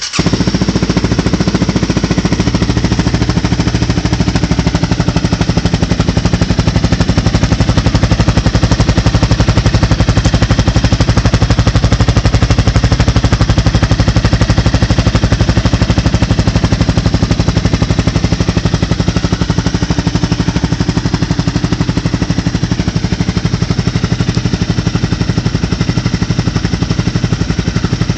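Honda CBR250 motorcycle engine idling steadily through a Two Brothers Black Series aftermarket exhaust, a loud, fast, even pulsing.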